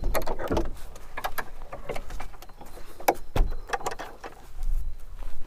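A door being unlocked and opened by hand: a run of separate knocks, clicks and clatters, the loudest about three seconds in.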